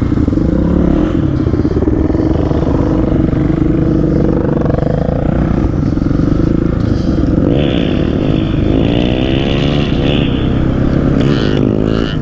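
Dirt bike engine running while riding on the road, its pitch rising as it accelerates about eight seconds in.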